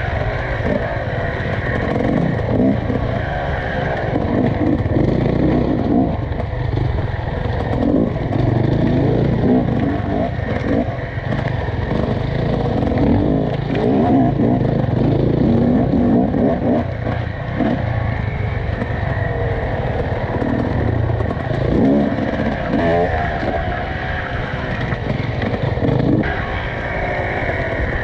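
Off-road enduro motorcycle engine being ridden, with the throttle opening and closing so its pitch rises and falls again and again.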